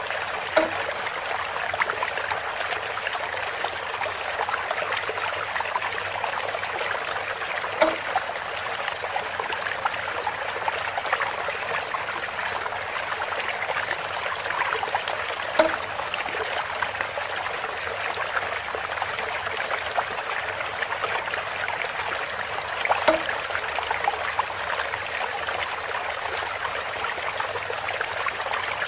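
Water trickling steadily from a bamboo water fountain, with a short, hollow-sounding knock four times, evenly about seven and a half seconds apart.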